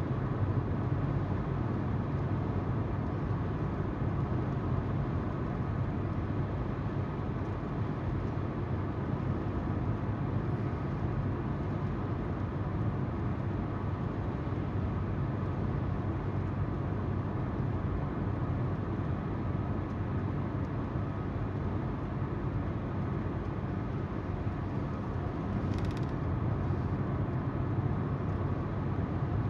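Steady road noise inside a moving car: tyres rolling on the road with the engine's even hum. There is one brief click near the end.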